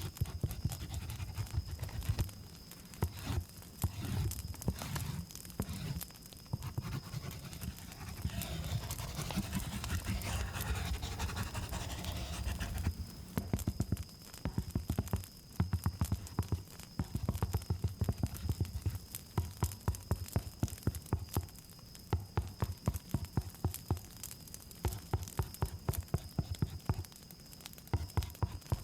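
Close-miked ASMR tapping: rapid soft taps with low thuds, with a stretch of rustling in the middle, over a steady high cricket drone.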